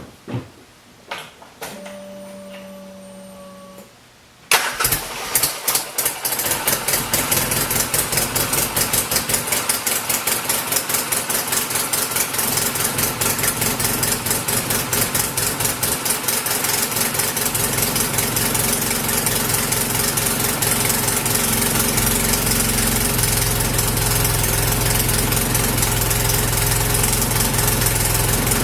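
A couple of clicks and a short steady hum, then the Polaris RZR 800's twin-cylinder four-stroke engine cranks and starts about four and a half seconds in and settles into a steady idle, breathing through an SLP Super Silent aftermarket muffler. Its tone differs from the stock exhaust but it runs about as loud, roughly 78 to 79 dB a foot away.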